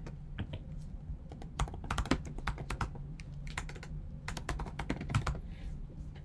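Typing on a computer keyboard: quick runs of key clicks, with a pause of about a second around the middle, while a player's name is searched for.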